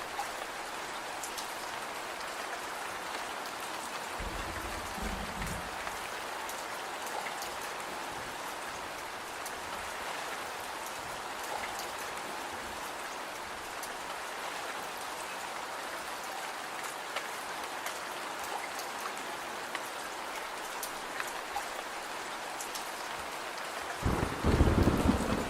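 Steady rain, with scattered faint sharp ticks through it. A short low rumble of thunder comes about four seconds in, and a louder rumble of thunder starts near the end.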